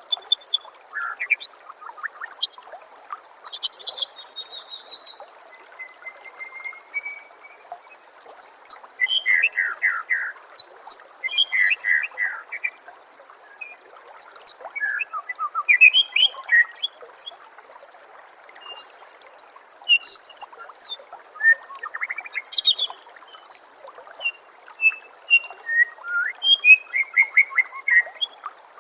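White-rumped shama singing: short phrases of fast notes and whistles, repeated every few seconds with gaps between. Under the song runs a steady trickle of water.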